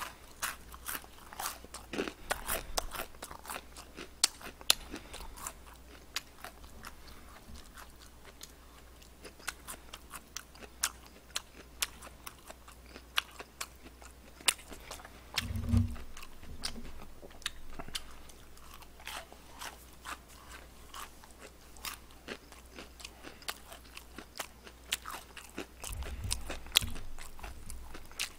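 Close-miked crunching and chewing of crispy fried chicken: many sharp, irregular crackles of battered crust being bitten and chewed.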